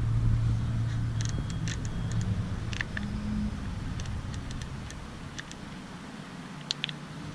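Low steady hum of the parked car running, with scattered light clicks; the hum fades and drops away about five seconds in.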